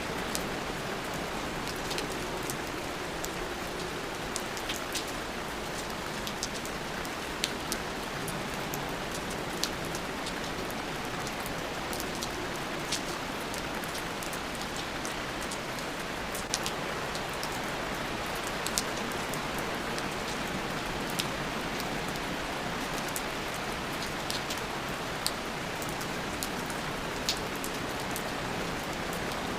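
Steady rain, with scattered louder single drops landing close by every second or two.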